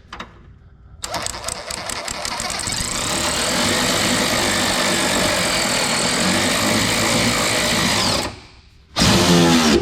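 Power tool running a nut down onto a rear suspension bolt, starting about a second in with a quick run of clicks, then a steady buzzing run of about seven seconds that stops abruptly.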